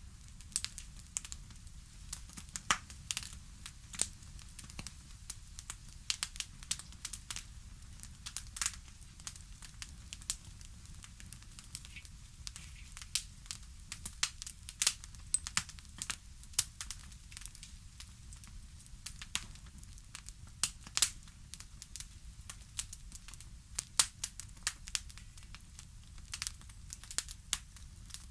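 Wood fire in a fireplace crackling: irregular sharp pops and snaps, several a second at times, over a faint low rumble.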